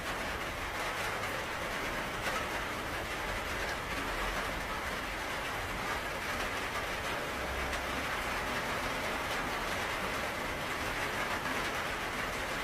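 Steady rain falling, a dense even hiss without a break.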